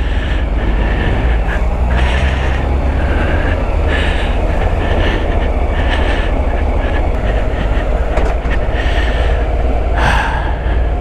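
Motorcycle under way, with heavy wind rumble over the microphone and the engine running steadily beneath it.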